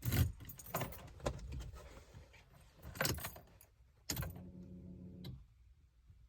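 Car keys jangling and clicking at the Volvo 740's ignition before a cold start, then a brief steady electric hum lasting about a second, a little after the middle.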